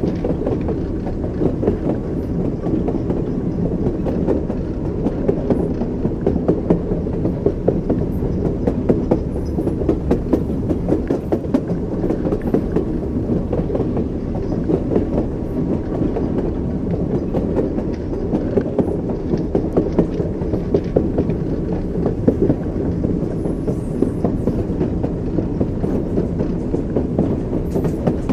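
Train running steadily, its wheels knocking on the rails over a constant low rumble.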